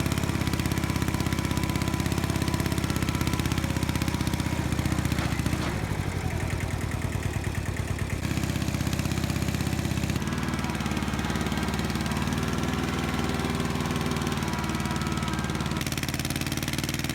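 Kubota tractor's diesel engine running steadily, its note changing abruptly a few times.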